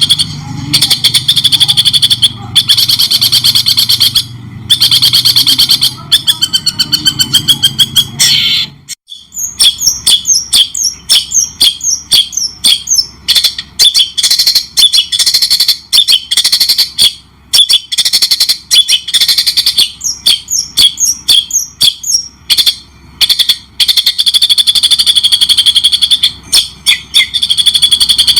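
Recorded songbird song played as masteran, training audio for caged songbirds: fast repeated chattering notes, breaking off about nine seconds in, then a long run of quick sweeping chirps.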